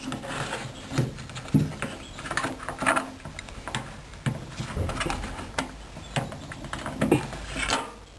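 Irregular plastic knocks, clicks and rustling as washing-machine parts around the drain filter are handled and closed up.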